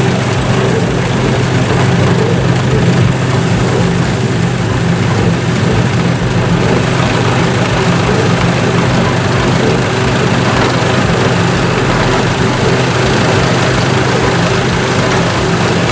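An engine running steadily at an even speed, a low constant drone with no change in pitch.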